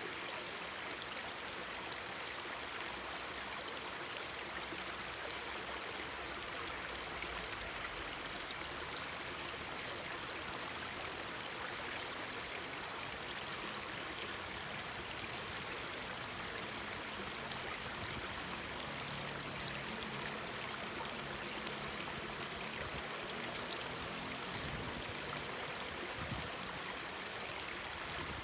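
A mountain stream babbling steadily over rocks. Past the middle, two sharp pops from a wood campfire stand out above the water.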